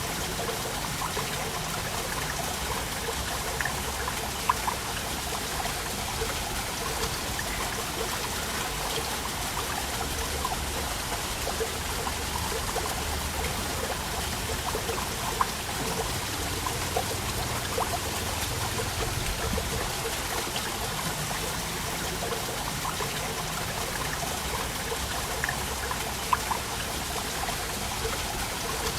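Waterfall: water falling and splashing steadily, with small droplet splashes throughout and a few louder splashes.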